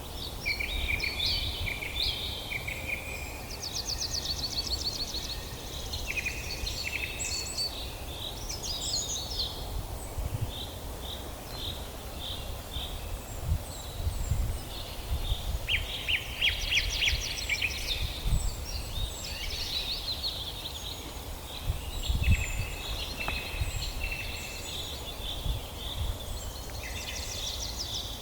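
Several songbirds chirping and trilling, with calls overlapping and following each other in quick runs, over a steady low rumble.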